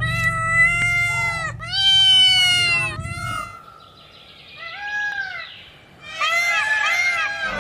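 A series of high-pitched animal calls: several long drawn calls in the first three seconds, then a burst of short calls that rise and fall near the end.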